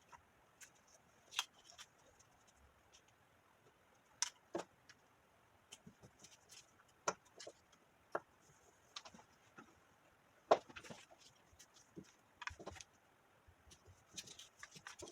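Cardstock being handled and worked by hand: scattered light clicks, taps and short rustles at an irregular pace.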